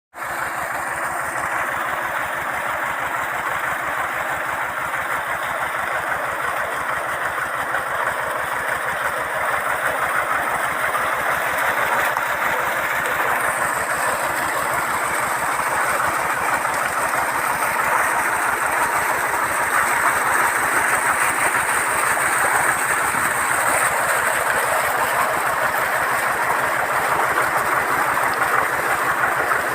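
Tractor engine running steadily with an even, fast low pulsing while driving a PTO water pump, with a dense rushing hiss over it that grows slightly louder through the stretch.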